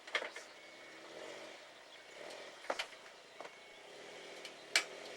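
Suzuki Jimny JB23's 660 cc three-cylinder turbo engine running steadily at low revs while crawling over rocks. Several sharp knocks and clunks, the loudest near the end.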